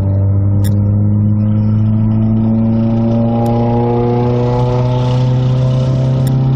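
Chevrolet Cobalt engine running, its speed slowly rising, with a few brief sharp clicks. The engine makes a loud ticking noise, which the owner suspects may be a clogged lifter after a recent rebuild, rod bearings and timing chain tensioner having been ruled out.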